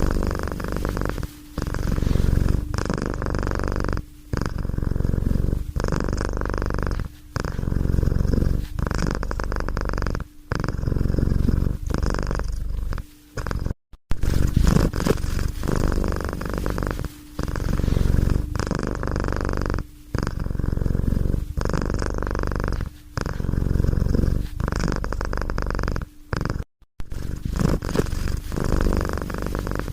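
Domestic cat purring close up, a steady purr that breaks for a moment about every three seconds and cuts out completely twice.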